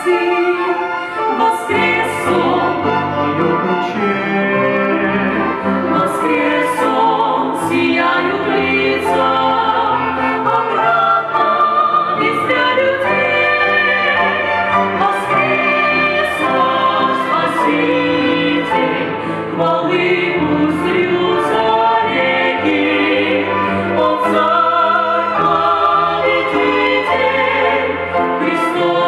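Voices singing a Christian Easter song together, with instrumental accompaniment, continuing throughout.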